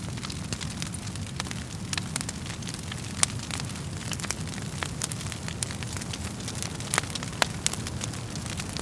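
Wood fire burning in a fireplace: irregular sharp crackles and pops over a steady low rumble of the flames, with the loudest pop about three seconds in and another near seven seconds.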